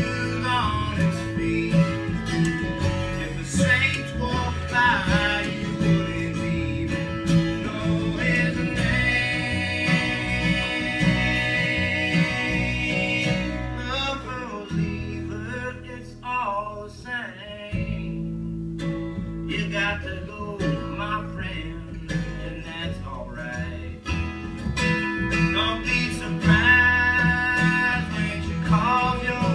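Acoustic country-folk string band playing, guitar to the fore. The music thins out for a few seconds about halfway through, then comes back in full.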